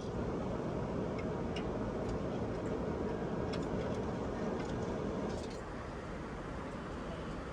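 Steady in-flight cabin noise of an Airbus A380-800, a little louder for the first five seconds or so, with a few light clicks over it.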